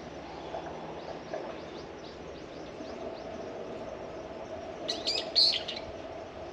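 Birds chirping, with a sudden burst of loud, high calls about five seconds in, over a faint steady hum.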